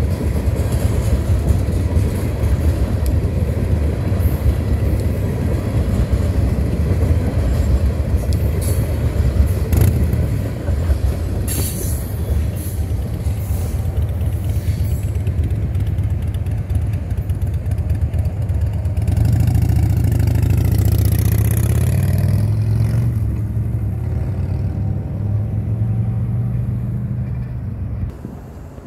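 Freight train of tank cars rolling past close by: a steady low rumble of steel wheels on rail with sharp clicks from the wheels a third of the way in. A louder swell about two-thirds through, and the rumble drops away near the end as the train moves off.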